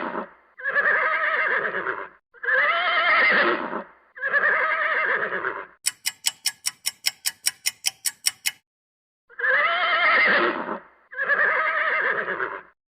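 A horse whinnying, a run of long wavering neighs repeated three times. Then a clock ticks rapidly for about two and a half seconds, and two more whinnies follow.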